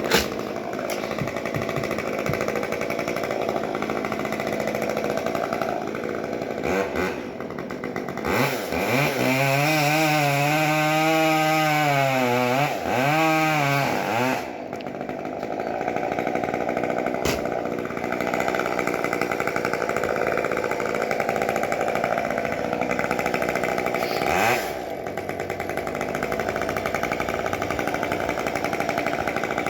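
Two-stroke chainsaw running throughout. About a third of the way in, it is throttled up for roughly six seconds, louder and with its pitch wavering, then drops back. It surges briefly again later.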